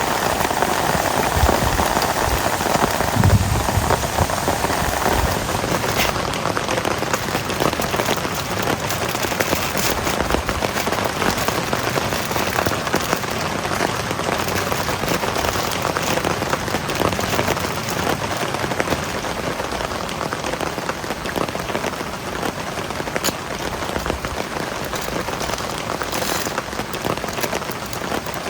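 Heavy rain falling, a steady dense patter of drops with a brief low thump about three seconds in.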